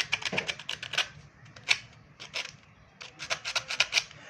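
Short scraping strokes in quick runs, with a few single strokes between. This is hand cleaning of a car alternator's parts, where dirt has built up on the rotor.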